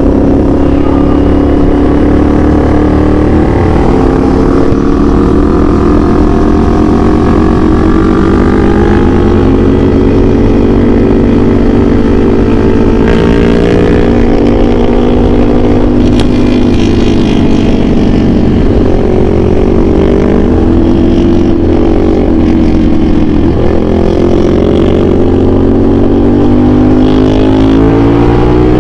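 CFMOTO 450SR S parallel-twin engine with an aftermarket AR exhaust, running under way. Its pitch rises and falls with the throttle, dropping and climbing again twice in the second half.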